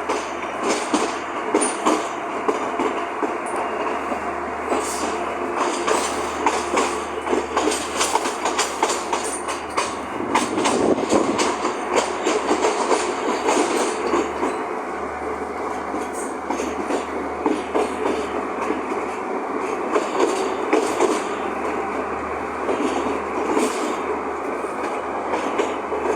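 Passenger train running along the track: a steady rumble and rattle with frequent clicks of the wheels over rail joints.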